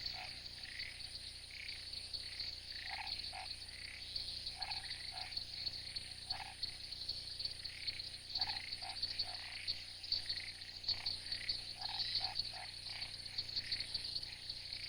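Frogs calling in short, irregularly repeated croaks over a steady, high-pitched insect chorus.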